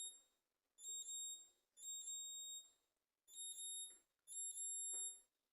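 Refrigerator's door-open alarm beeping: a high electronic beep about once a second, warning that the door is open. The beeping stops near the end, when the flashing button on the control panel is pressed to silence it.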